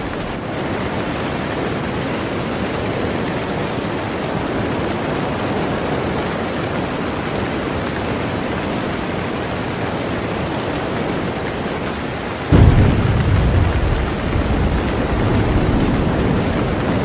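Heavy rain falling steadily on a boat. About twelve seconds in, a deep rumble of thunder starts suddenly and keeps rolling under the rain.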